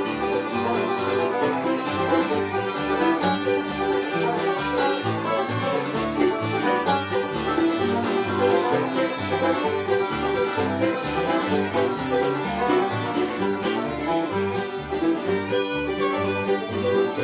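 Acoustic bluegrass band playing an instrumental passage, with banjo, fiddle and guitar over a steady walking bass line.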